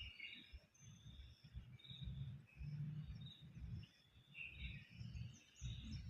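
Faint outdoor ambience: small birds chirping in short calls over a low, uneven rumble of noise on the microphone.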